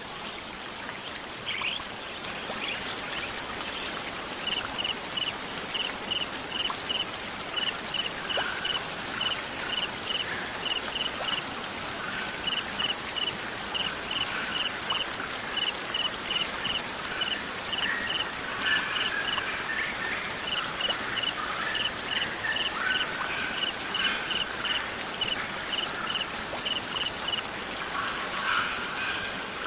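Mixed nature soundtrack: a steady rush of water, with a cricket chirping in short pulsed bursts about once a second from about four seconds in until near the end. A songbird sings scattered warbling phrases over it.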